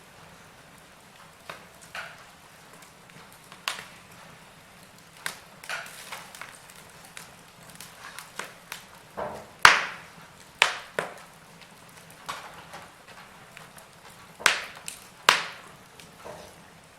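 Wood fire crackling: irregular sharp pops and snaps over a faint steady hiss, with the loudest pops a little past halfway and again near the end.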